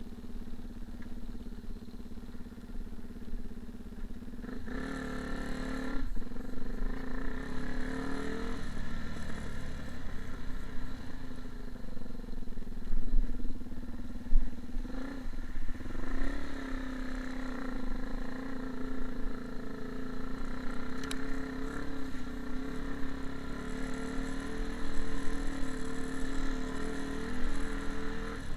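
A motor vehicle's engine running steadily, its pitch shifting about five seconds in and again around the middle.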